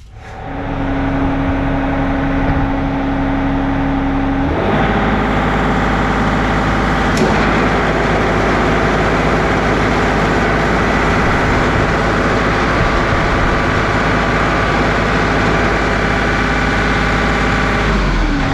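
John Deere 2038R compact tractor's diesel engine running with a Land Pride RT3062 rototiller hooked to its PTO. About four and a half seconds in the sound thickens and deepens as the PTO drives the tiller, with one sharp click a couple of seconds later; shortly before the end it drops back to the plain engine note.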